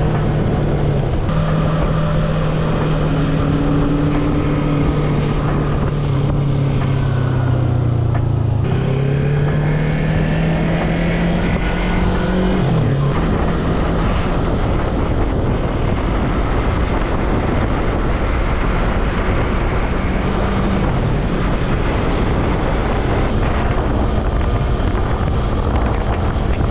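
Yamaha MT-03 motorcycle engine running on the road, heard with heavy wind and road noise. The engine note holds steady, climbs for a few seconds and drops suddenly about twelve seconds in.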